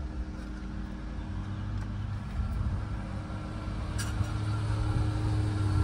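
Motor vehicle engine idling steadily, a low hum with a few constant tones, with a single sharp click about four seconds in.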